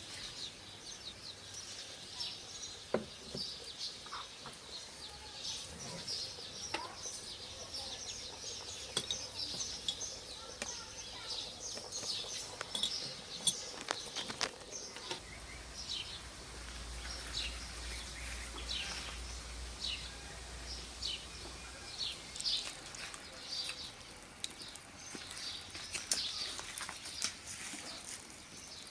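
Small birds chirping repeatedly in short, high calls, with a few scattered light clicks.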